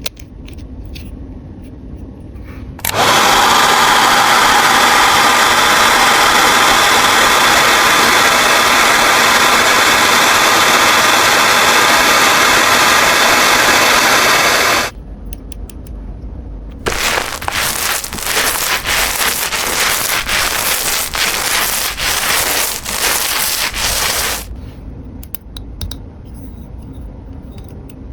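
A small motor whirring steadily for about twelve seconds, then, after a short pause, running again in choppy stop-start bursts for about seven seconds.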